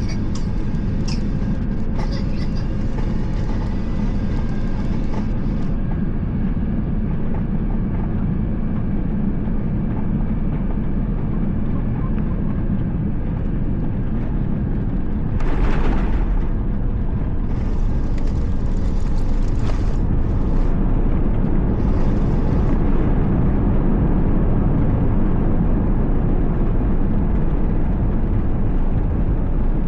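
Airbus A350 cabin noise, a steady low engine and airflow rumble. About halfway through there is a sudden thump, likely the touchdown on landing. After it the rush of noise grows louder for the rest of the time.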